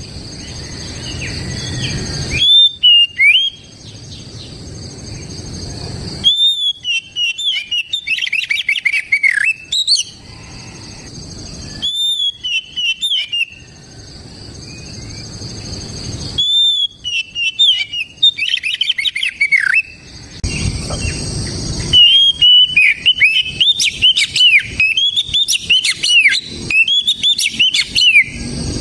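Oriental magpie-robin singing loud, whistled phrases and rapid, varied trills in bursts a few seconds long, broken by short pauses. Between several of the bursts a low rushing noise swells, then cuts off when the song resumes.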